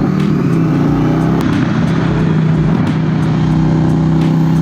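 Motorcycle engine pulling away under way, its pitch rising in the first second and then holding steady.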